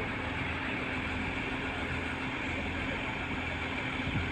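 An engine running steadily with a low, even hum that does not change in pitch.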